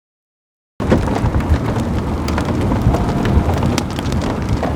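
Silence, then under a second in a sudden start of outdoor storm wind rumbling and buffeting on the microphone, with scattered light ticks.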